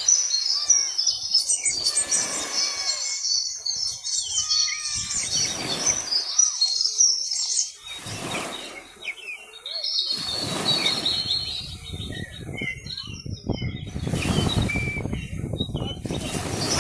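Many small birds chirping and twittering at once, a dense chorus of quick high notes and short whistles. Brief rushes of noise come and go every few seconds.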